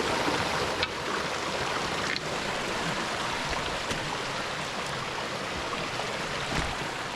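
A stream rushing steadily over rocks, with a few brief clicks about a second in and again near two seconds.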